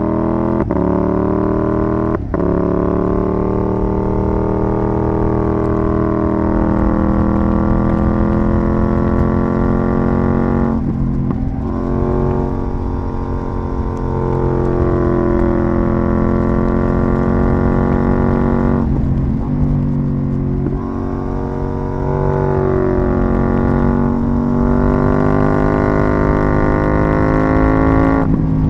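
KTM 790 Duke's parallel-twin engine through an IXRace MK2 aftermarket exhaust, heard onboard while riding. The engine note climbs and falls with the throttle, with short breaks about two seconds in, around eleven seconds, near twenty seconds and again a few seconds later, as the rider shifts gear or rolls off.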